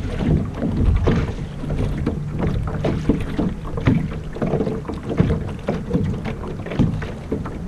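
Water lapping and slapping against the hull of a small sailboat under way, in many irregular small splashes, with wind buffeting the microphone.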